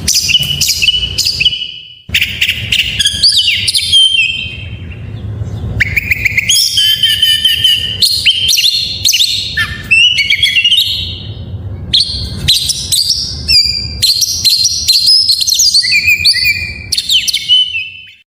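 Oriental magpie-robin (kacer) singing a fast, continuous run of varied whistles, trills and chatter, the phrase-packed "full isian" song used to set off other kacers; it breaks off briefly about two seconds in and stops abruptly at the end.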